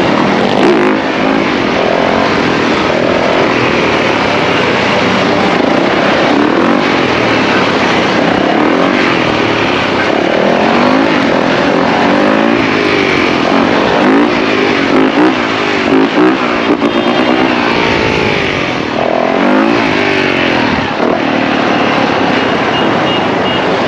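A pack of dirt bikes and ATVs revving and riding together, many engine notes rising and falling over one another without a break.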